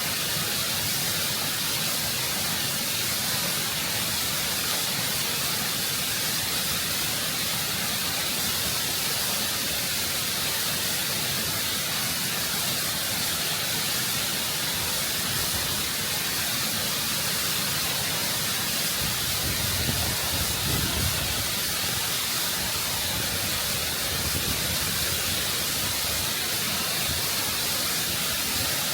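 Waterfall rushing and cascading over rock, heard close up as a steady, full hiss of falling water, with a low rumble swelling briefly past the middle.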